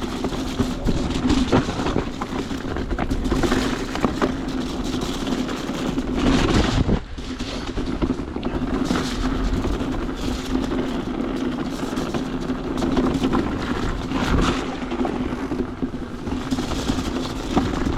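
Canyon electric mountain bike ridden over a rough trail: a steady motor hum under a rushing noise, with frequent rattles and knocks from the bike.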